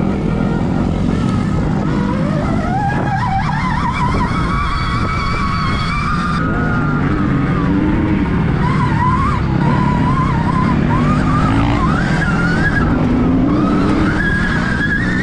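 Stark Varg electric motocross bike under way, its motor whine rising and falling in pitch with the throttle over a steady low rush of tyre and wind noise.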